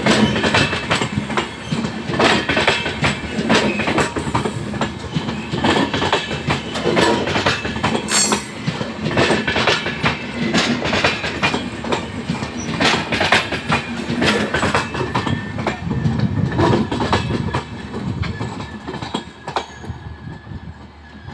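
Passenger express train's coaches rolling past close by, the wheels clattering over rail joints and points, with a brief high squeal about eight seconds in. The clatter fades as the last coach passes near the end.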